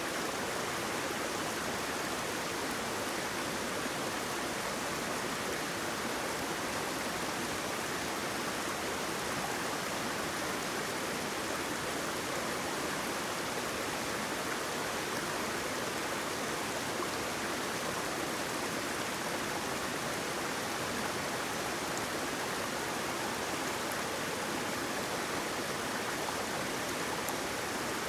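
Flowing water from a stream or small waterfall, an even, steady rushing with no breaks or changes.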